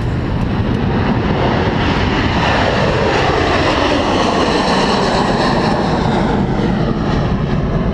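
Helicopter running close by, loud and steady rotor and turbine noise, its pitch sliding down in the middle as it moves past or changes power.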